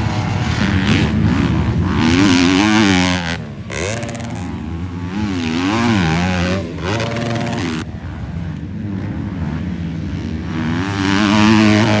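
Motocross bikes racing on a dirt track, engines revving hard and dropping back through the gears, the pitch rising and falling several times.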